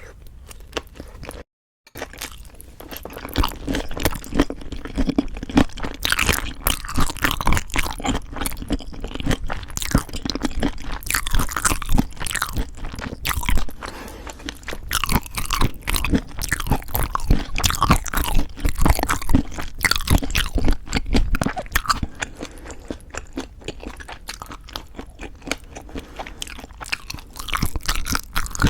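Close-miked chewing and crunching of food in the mouth, with dense, irregular crackles and wet bites. The sound starts in earnest after a short gap of silence near the start.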